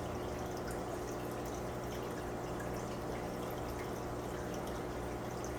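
Steady trickle and splash of water from hang-on-back aquarium filters, over a constant low hum.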